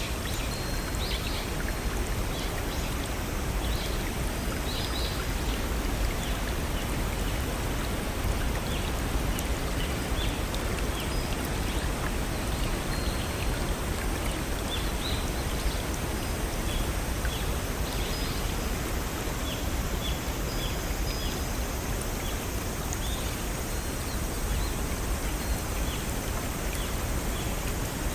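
Steady rush of a small stream over little waterfalls, with short, high bird chirps scattered throughout.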